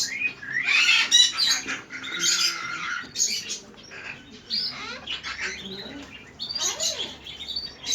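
Pet parrots chirping and squawking in a run of short calls with quick rising and falling whistles, loudest about a second in and again between two and three seconds in.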